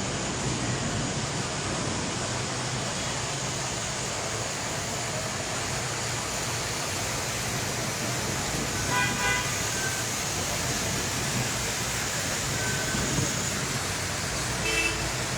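Steady rush of heavy rain with traffic on a wet road; a car horn toots about nine seconds in and again briefly near the end.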